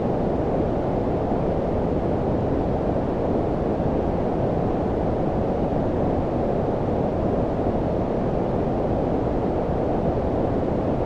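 Steady low-frequency noise, a deep rumbling hiss with little treble, unchanging throughout: filtered white noise of the brown-noise kind used for sleep.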